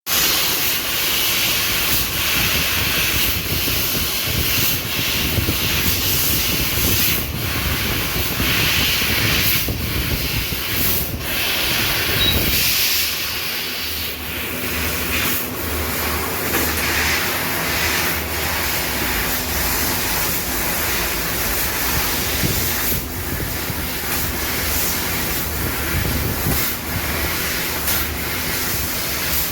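CNC laser cutting machine running: a loud, steady hiss over a low rumble, the rumble changing about thirteen seconds in.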